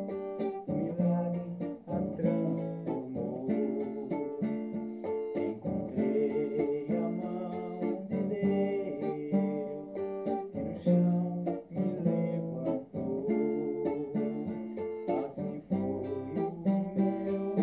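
Music: an acoustic guitar playing the song, with chords and notes picked in a steady, continuous rhythm.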